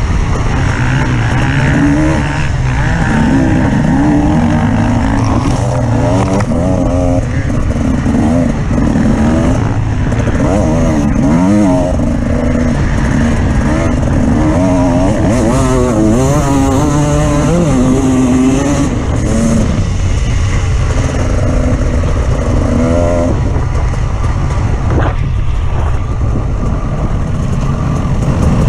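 Off-road vehicle engine running under load, its revs rising and falling repeatedly as it is driven over rough ground.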